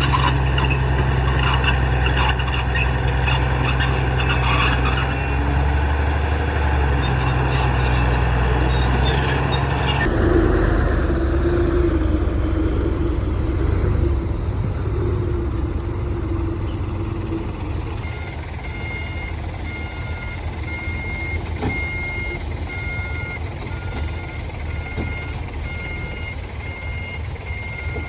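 Heavy diesel engine running loudly with some clattering for about ten seconds, then easing to a quieter run. From a bit past halfway, a reversing alarm beeps steadily, about once a second.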